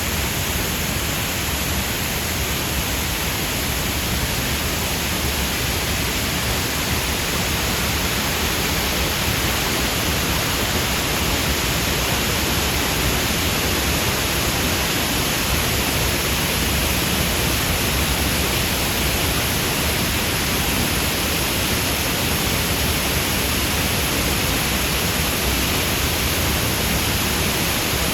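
Water falling steadily from a tall artificial waterfall: a loud, even, unbroken wash of noise.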